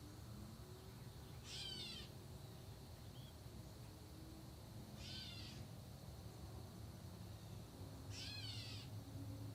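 A bird giving a short, downward-slurred call three times, about three seconds apart.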